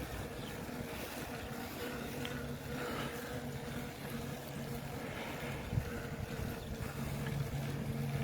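A vehicle's engine running steadily at cruising speed, with wind buffeting the microphone.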